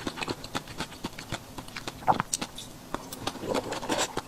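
Close-miked chewing of red-fleshed dragon fruit: many quick, wet mouth clicks and smacks.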